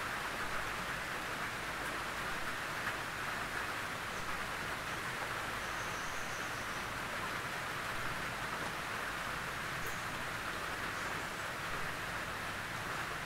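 Gentle rain falling steadily on a tin roof, a constant patter of drops on the metal.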